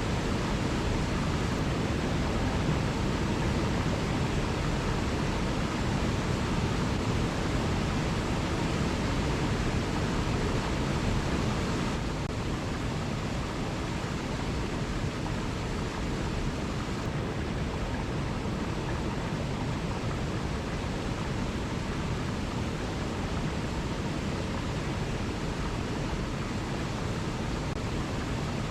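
Waterfall: a steady, even rush of falling water, dropping slightly in level about twelve seconds in.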